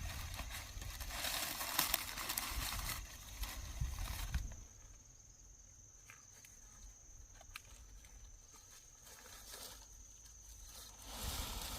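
Rustling and crunching noise for about four and a half seconds, then a quieter stretch with a few faint clicks, and rustling again near the end.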